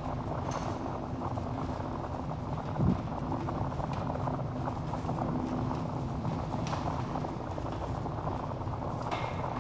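Log fire burning in a fireplace with a dense, steady crackle and a few sharper pops. A louder low thump comes about three seconds in.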